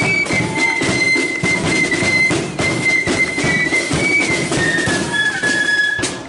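Marching flute band playing a tune: flutes carry a high melody over a steady beat of drums.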